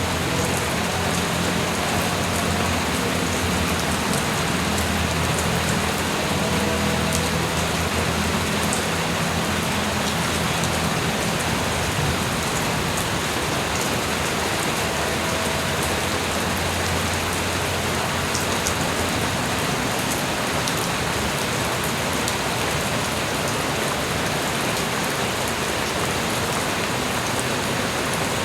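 Light rain falling steadily, an even hiss with scattered drops ticking. Underneath runs a low, steady rumble that fades out after about two thirds of the time.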